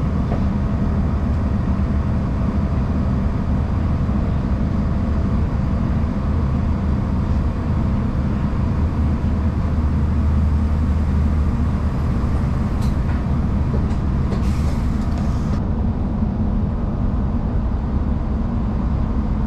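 Steady cabin noise of a diesel multiple-unit passenger train under way: a low engine drone and the rumble of wheels on the rails. A short hiss comes about three-quarters of the way through.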